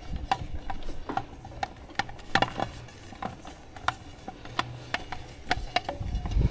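Irregular clicks and knocks of a hose reel and hose being handled, with a mechanical ratchet-like clatter, scattered about a dozen times.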